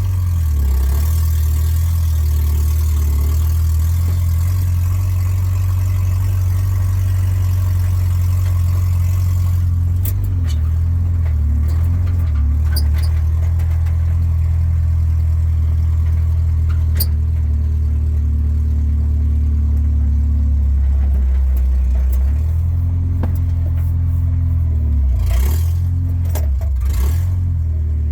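Ford Ranger pickup's engine running steadily just after a cold start, with a few sharp clicks near the middle and end.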